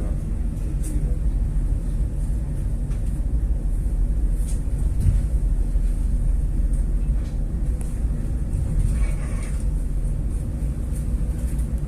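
Steady low rumble aboard a boat under way in rough weather, with a faint hiss above it.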